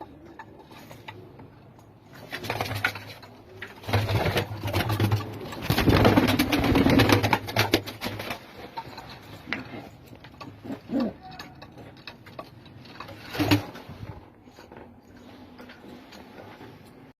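Domestic pigeons cooing close by, loudest in a few stretches through the middle, with a short loud burst near the end.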